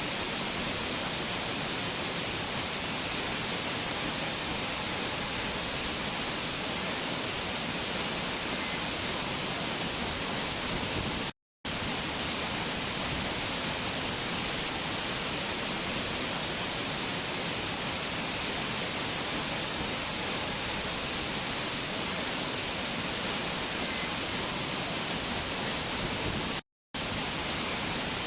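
Small waterfall (cascade) rushing steadily, an even hiss of falling water. It cuts out to silence for a split second twice, about a third and nine-tenths of the way through.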